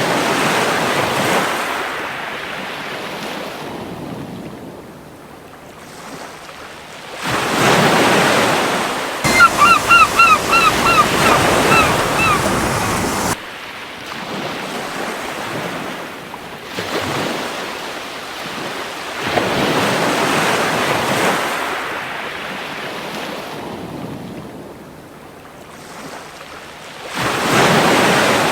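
Surf washing onto a beach in slow swells, one wave about every six seconds. About nine seconds in, a gull gives a quick run of about eight short, harsh calls lasting some three seconds.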